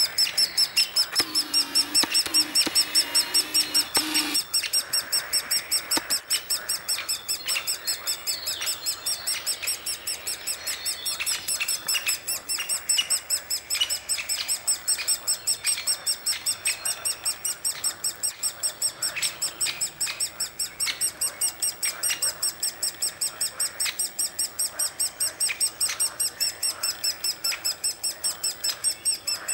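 Woodpecker calling: a long run of high-pitched, evenly spaced call notes repeated several times a second without a break.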